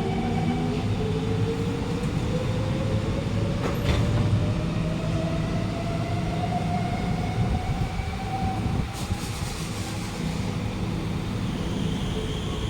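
Alstom Movia R151 metro train accelerating: its traction motors give a whine that rises smoothly in pitch over the first several seconds, over a steady rumble of wheels on rail. There is a brief click about four seconds in.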